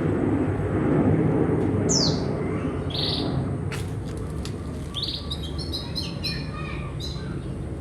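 Cage birds chirping: a falling chirp about two seconds in, a short note just after, then a run of quick chirps in the second half. Underneath is a low rumbling noise that eases after the first few seconds.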